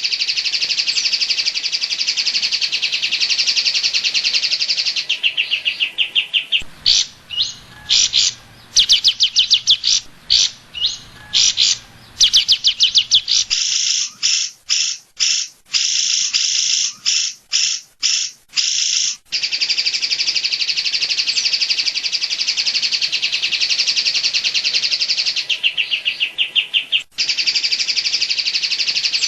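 Cucak ijo (greater green leafbird) singing long, fast trills of rapidly repeated high notes, the 'tembakan cililin' phrases. From about 7 to 19 seconds in, the song breaks into short phrases with brief gaps, then runs on continuously.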